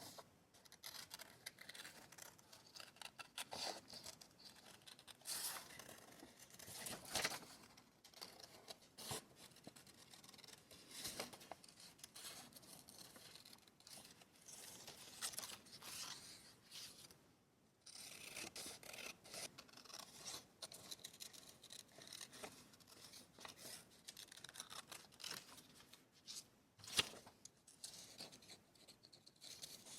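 Paper being cut with scissors and handled: a quiet, irregular run of snips and rustles.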